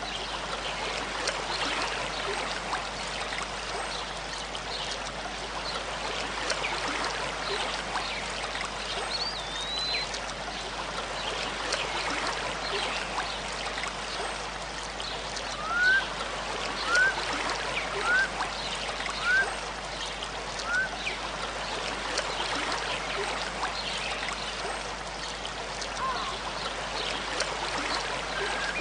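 A river rushing steadily after a flood. About halfway through, five short rising whistled calls come at roughly one-second intervals, louder than the water, and a single higher gliding whistle comes about a third of the way in.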